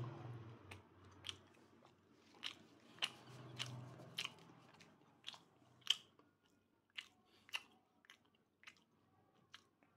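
Close-up sounds of a person chewing a small piece of pork sausage with the mouth open, about a dozen sharp, wet clicks at an irregular pace that grow fainter and sparser toward the end.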